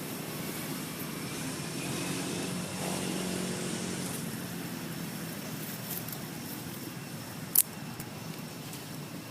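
Road traffic: a motor vehicle passing, swelling between about two and three and a half seconds in, over a steady background rumble. A single sharp click comes about seven and a half seconds in.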